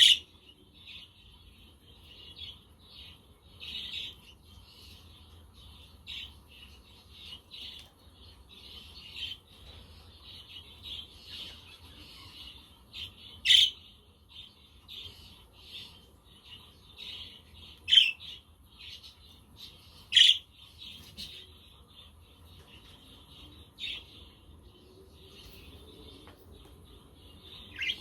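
Budgerigars chirping and chattering without a break, with a few louder sharp squawks about halfway through.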